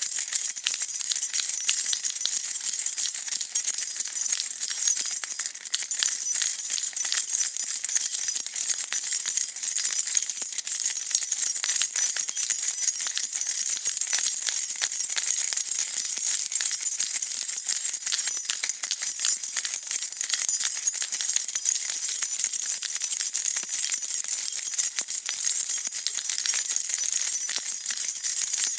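A bunch of metal keys being shaken, jingling continuously in a dense, steady stream of small high metallic clinks.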